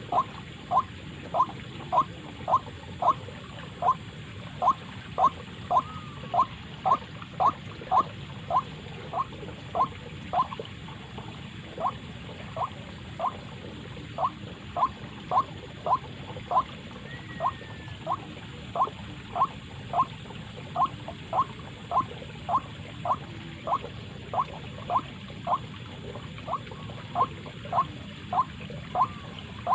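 White-breasted waterhen 'ruak ruak' call, a long run of short, even, repeated notes at about two a second, with a brief break near the middle. It is played as a trapping lure, likely through a Bluetooth speaker.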